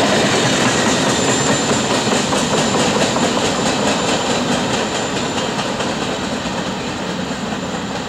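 Freight train cars rolling along the track, wheels clicking in a steady rhythm. The sound fades slowly as the end of the train passes and moves away.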